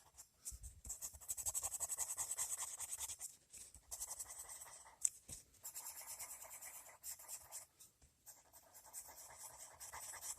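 Coloured pencil shading on paper: rapid back-and-forth scratchy strokes in several runs, broken by brief pauses.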